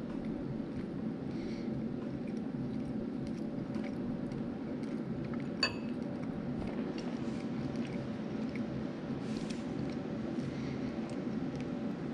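A person chewing a mouthful of soft canned pink salmon with faint, scattered wet mouth clicks over a steady low room hum. A single light metallic clink rings out about halfway through.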